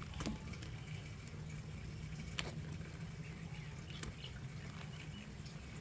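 A few scattered sharp clicks and taps of hand tools on metal parts in a car's engine bay, over a steady low hum.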